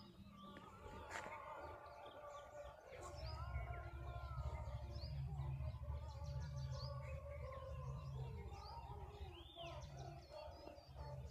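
Several birds chirping and calling, with many short whistled notes and trills, over a low rumble on the microphone that starts about three seconds in.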